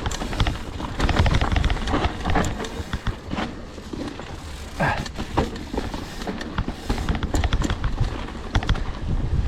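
Mountain bike riding a dirt trail: wind rumbling on the microphone, with a steady clatter and rattle of tyres and the bike over rough ground and a few short squeaks near the middle.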